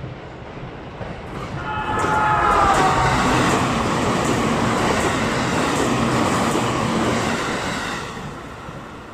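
E653-series electric express train running past at speed. The train builds to its loudest about two seconds in, with a brief falling whine as it passes, wheel-and-rail noise and clicking over the rail joints, then fades after about eight seconds.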